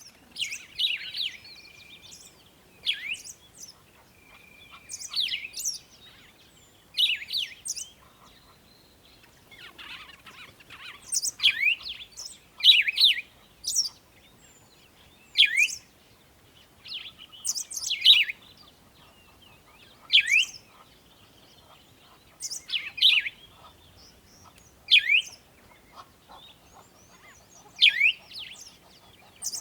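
Bird song: short chirping phrases repeated about every two seconds, each made of quick high notes sweeping downward in pitch.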